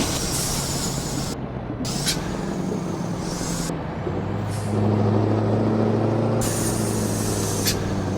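Scania V8 diesel truck engine with a straight-through exhaust running steadily, its low rumble rising in level about five seconds in.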